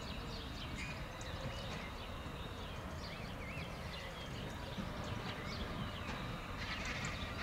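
Birds chirping and singing, many short rising and falling calls, over a low steady rumble.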